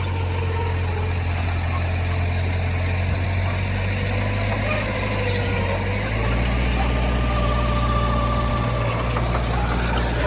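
Diesel engine of heavy earthmoving machinery running with a steady low drone, stepping up to a heavier, slightly louder note about six seconds in.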